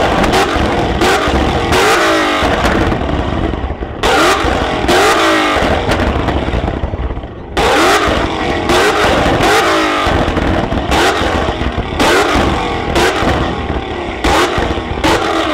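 High-performance car engine revved hard in repeated surges, the pitch sweeping up and down, with sharp crackling pops from the exhaust. Fresh surges start about four and seven and a half seconds in, and the sound eases off near the end.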